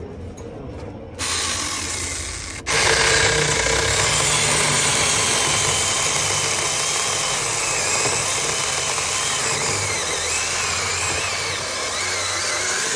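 Cordless electric chainsaw running and cutting into a rotten wooden plank. It starts about a second in, gets louder a moment later and runs steadily, its pitch wavering slightly under load.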